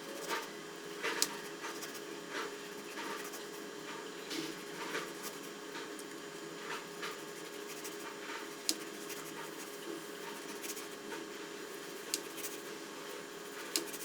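Kitchen knife making repeated thin cuts into a raw potato: short crisp slicing clicks at an uneven pace, about one or two a second.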